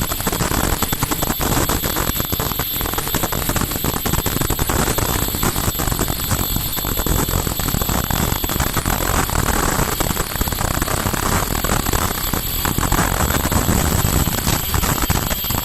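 Bonnet (disposable cap) making machine running steadily: a dense mechanical clatter of rapid ticks with a thin, steady high whine over it.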